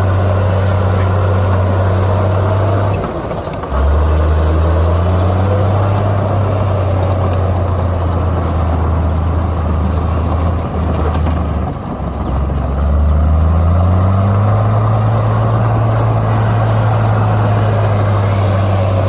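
Heavy diesel engine of earthmoving equipment running hard. Its note drops lower about four seconds in, cuts out briefly near twelve seconds, then climbs back up to its earlier pitch over the next couple of seconds.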